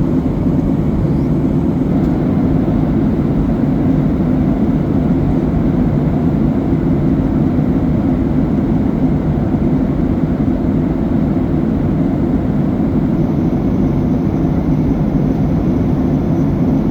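Steady cabin roar of a Boeing 737-800 in flight, the CFM56-7B turbofans and airflow making an even, unbroken low rumble.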